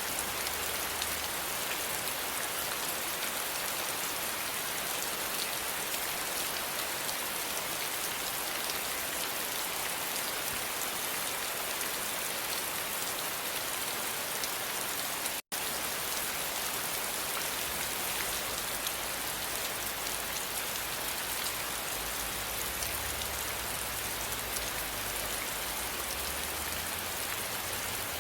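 Steady rain falling, an even dense hiss of drops on a surface. The sound cuts out for an instant about halfway through, then carries on unchanged.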